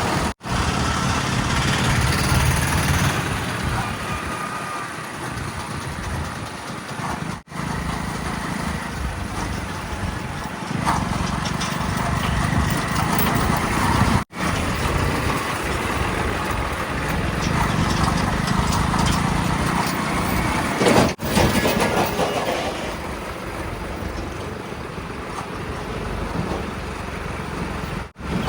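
Diesel engines of a backhoe loader, tippers and tractors running under work, steady and loud. The sound drops out sharply about every seven seconds, at the joins between short clips.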